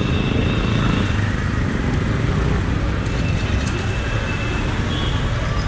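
Jawa Classic 300's single-cylinder engine running steadily while the motorcycle is ridden on the road, with traffic around it.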